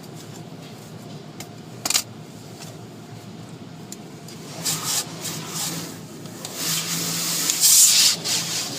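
Automatic car wash working over the car, heard from inside the cabin: a steady low hum with a click about two seconds in, then from about halfway a hiss of washing and rubbing over the body that builds and is loudest near the end.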